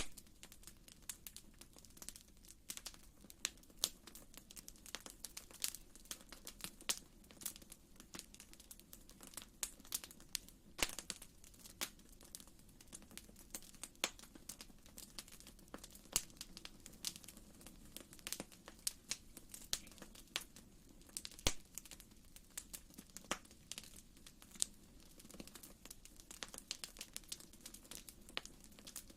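Wood fire crackling in a fireplace: irregular sharp pops and snaps, several a second, over a soft low hiss of the flames.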